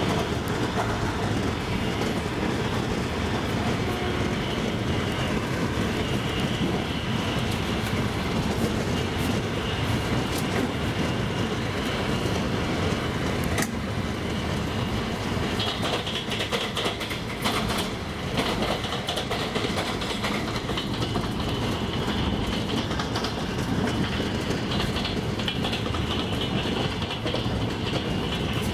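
Double-decker passenger train moving along the track: the steady rumble of the coaches with wheels clacking over the rail joints, and a few sharper clicks around the middle.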